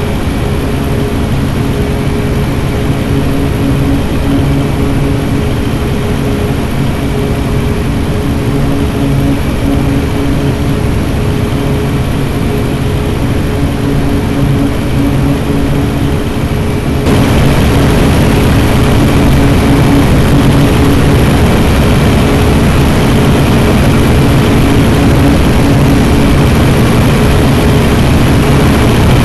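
Scania city bus engine running steadily. About two-thirds of the way through, the sound suddenly gets louder and hissier.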